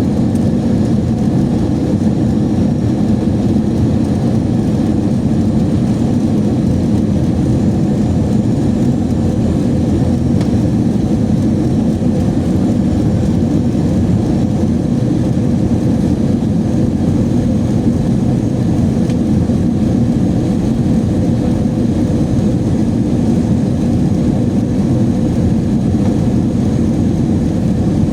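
Steady cabin noise inside an Airbus A321 airliner: the even rumble of the jet engines and airflow, with a few faint steady tones and no change in level.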